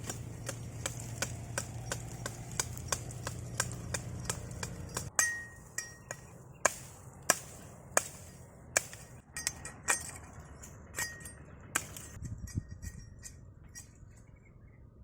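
A knife chopping on a cutting board: quick light knocks about three a second, then about five seconds in, harder, slower strokes, some with a short metallic ring from the blade.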